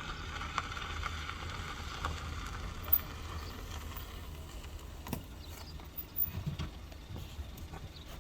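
A car's engine and road noise as it drives up, the noise fading as it slows, with a few light knocks.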